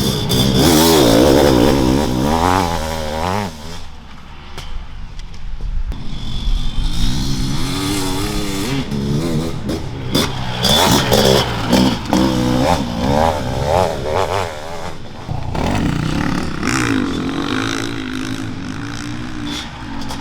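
Honda CR500 two-stroke single-cylinder motocross engine revving hard and falling back again and again as the bike is ridden round a track. It goes quieter, off the throttle, for about two seconds roughly four seconds in, then pulls up again.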